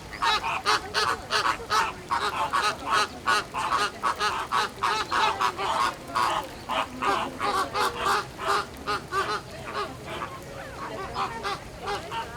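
A flock of flamingos honking: a steady run of short, goose-like calls, about three a second, thinning out over the last few seconds.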